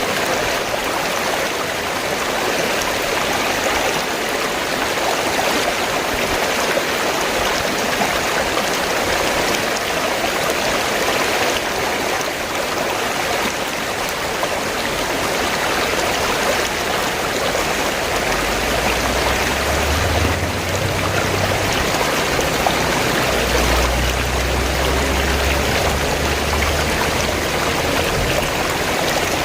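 River water flowing steadily in a continuous even wash. A low rumble underlies it for several seconds, beginning about two-thirds of the way in.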